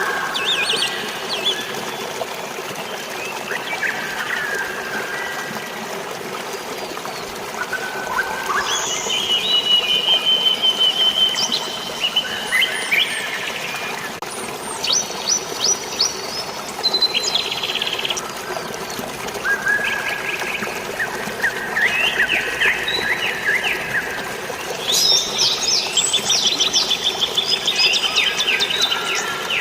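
Birds chirping and trilling in many short phrases over a steady rush of flowing water.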